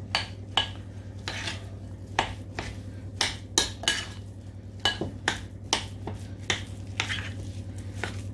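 Leberkäse meat paste being stirred and mixed through in a bowl, with irregular wet clicks and knocks about twice a second.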